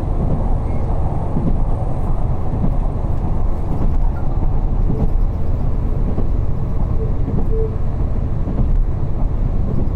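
Diesel train on the move, heard from inside the passenger cabin: a steady low rumble of engine and wheels on the rails.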